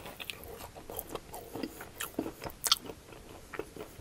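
Close-miked biting and chewing of a crispy breadcrumb-coated fried potato cake: a bite through the crust, then irregular crisp crunches as it is chewed, the loudest a little under three seconds in.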